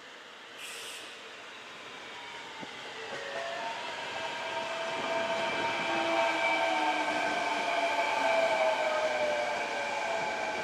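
Electric train approaching, growing steadily louder over the first few seconds, with several whining tones from its running gear that slowly fall in pitch. There is a short hiss about a second in.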